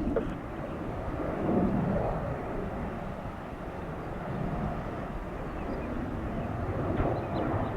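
Jet airliner engine noise: a rumble that swells and fades.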